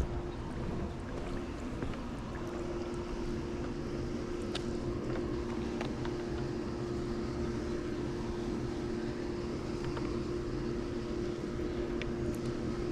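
Swimming pool pump motor running with a steady hum, drawing water through the vacuum hose, with a few faint clicks over it.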